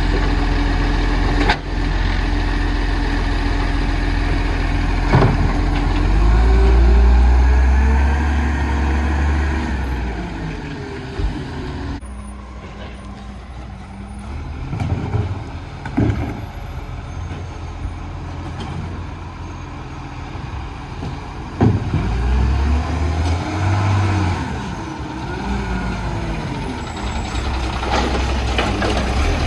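Garbage truck's diesel engine idling, revving up and back down twice, about six seconds in and again about twenty-two seconds in, with several sharp clunks and a hiss of air brakes.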